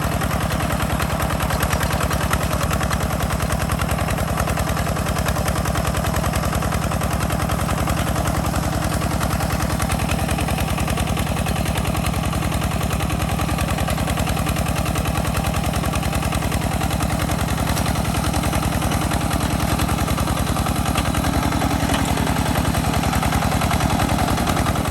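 Walk-behind hand tractor engine running steadily under load while plowing, with a fast, even chugging exhaust beat. It grows slightly louder near the end.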